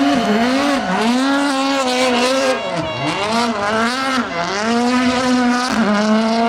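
Rally car engine running hard on a stage, its pitch climbing and dropping again and again as it revs, with a deep dip about three seconds in.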